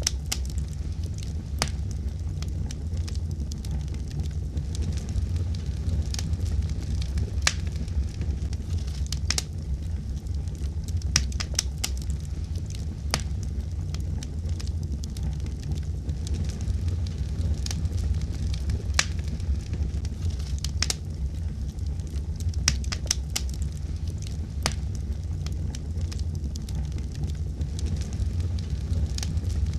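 Wood fire burning in a fireplace: a steady low rumble of the flames with irregular sharp crackles and pops, some coming in quick clusters.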